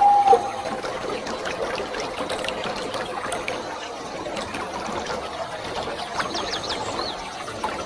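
Steady rush of falling water from a waterfall. A pitched bird call fades out just at the start, and small birds chirp briefly, most clearly about six to seven seconds in.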